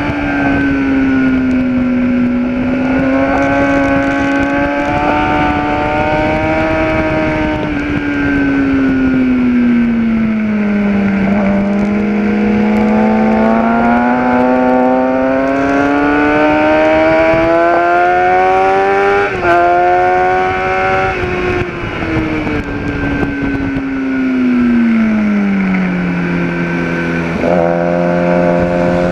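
Kawasaki ZX-10R inline-four sportbike engine heard on board at track pace, its pitch climbing and falling again and again as the rider drives out of corners and rolls off for braking.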